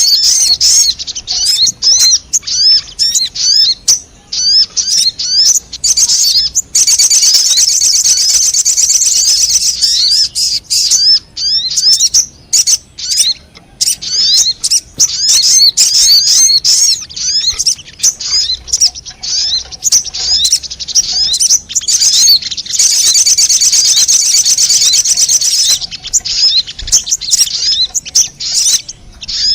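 Sogon birdsong played as a trapping lure call: a fast stream of high, sharp chirps, twice breaking into long dense trills lasting several seconds each, about a quarter of the way in and again late on.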